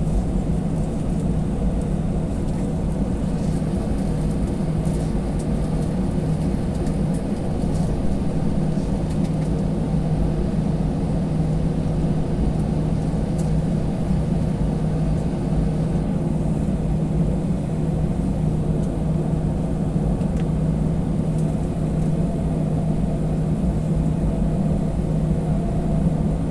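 Airliner engines running with a steady low rumble and hum, heard from inside the passenger cabin as the plane taxis before take-off.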